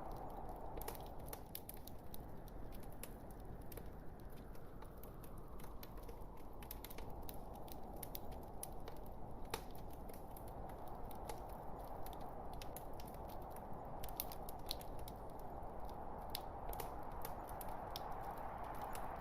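Logs burning in a fireplace: irregular sharp crackles and pops over a steady hiss.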